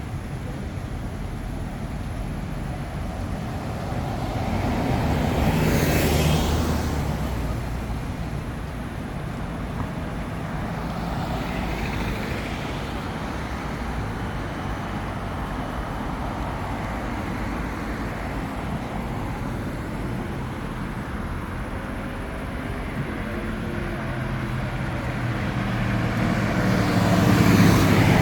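Street traffic: a steady rumble of vehicles, with a car passing close about six seconds in, a fainter one a few seconds later, and another passing close near the end.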